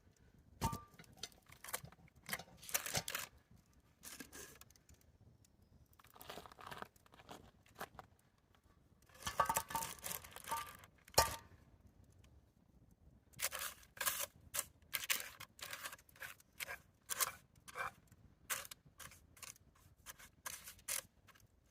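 Rustling and scraping handling sounds in short bursts while cooking gear is handled, with a sharp knock about eleven seconds in and a quicker run of strokes near the end.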